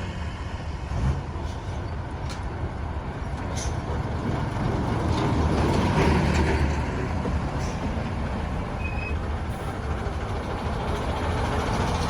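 Busy road traffic: vehicle engines running with steady rumble and road noise, swelling and easing as vehicles pass. A brief high beep sounds late on.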